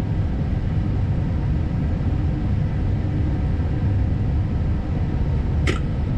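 Steady low rumble and hum of a parked Airbus A320neo's on-board systems and ventilation in the cockpit, with the engines shut down. A brief high squeak or click comes near the end.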